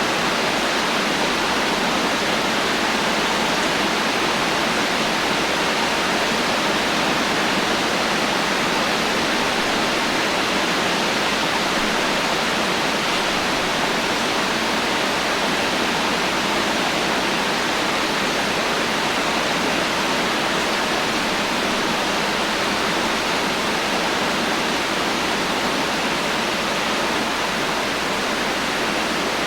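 Heavy rain falling as a steady, even hiss, without thunder.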